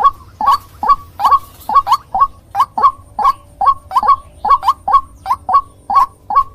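White-breasted waterhen (ruak-ruak) calling: a fast, regular series of loud, short croaking notes, about three to four a second, often in pairs. This is the repetitive call used as a lure to draw the birds in.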